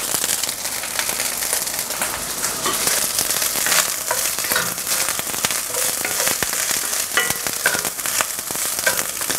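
Fried rice with freshly added shredded cabbage sizzling and crackling in a hot enamelled cast-iron pan while it is stirred and tossed with a wooden spatula.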